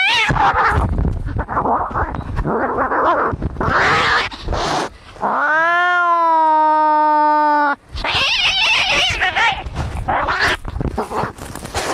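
Cats fighting: harsh hissing and growling, broken about five seconds in by one long yowl of some two and a half seconds, then more hissing and spitting.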